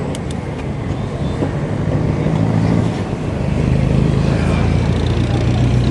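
Low road and wind rumble on a moving camera, with two sharp clicks at the start. About two seconds in, a motor vehicle's engine hum rises out of it and grows louder.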